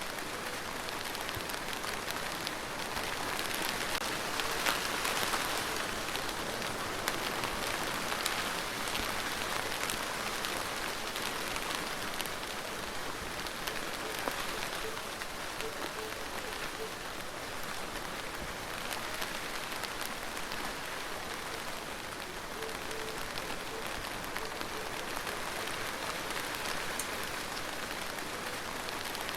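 Steady rain falling on a surface, a dense patter of individual drops over an even hiss, swelling slightly a few seconds in.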